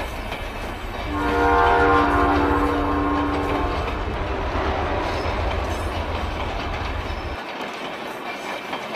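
A train running with a steady rumble. Its horn sounds about a second in and holds one steady chord for about two and a half seconds. The rumble drops away about seven seconds in.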